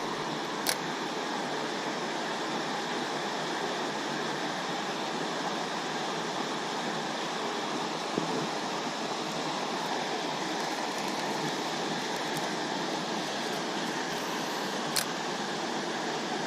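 Water pouring over a spillway: a steady, even rush. A sharp click about a second in and another near the end.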